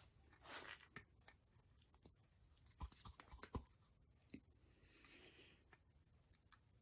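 Near silence, with a few faint clicks and taps of small parts being handled.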